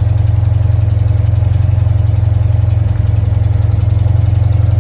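1968 BMW R60/2's air-cooled flat-twin engine idling steadily with a fast, even pulse as it warms up after a cold start.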